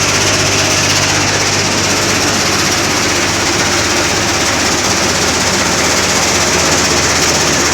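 Stone-grinding machine with a sieve, driven by a diesel engine, running steadily and loudly: a constant engine hum under a dense rushing, grinding noise.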